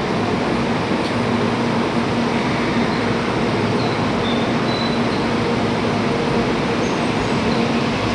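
Shinkansen cabin noise while running at speed: a steady rumble and rush of wheels and air with a constant low hum.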